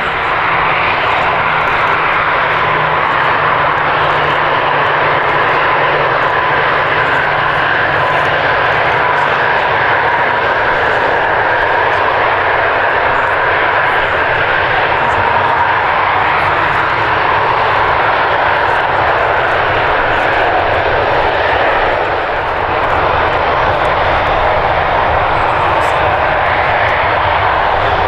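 Jet airliner engines running loud and steady at close range, a broad rushing noise. A high whine and a low hum sit on top of it at first and fade away over the first ten seconds or so.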